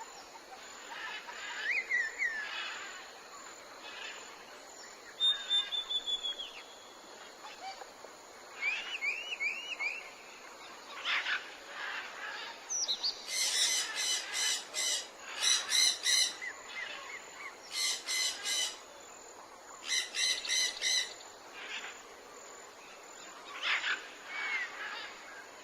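Wild birds calling and singing: short chirps and slurred whistles, then four bursts of fast repeated notes in the second half.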